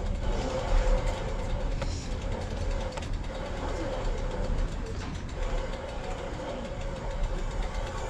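Wind rumbling on the microphone of a moving road bike, with a faint steady hum that comes and goes.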